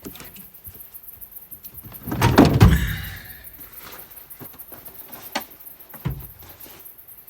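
Handling noise: a loud rough thump and scrape about two seconds in, then a light click and a short knock a few seconds later.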